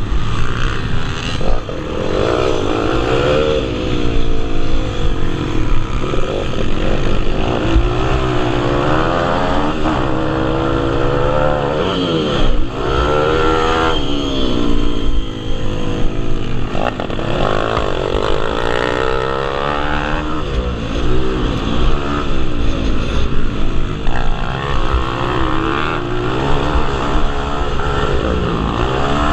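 Several pit bikes' small single-cylinder four-stroke engines revving up and down over and over as they race around the track, their pitches rising and falling and overlapping.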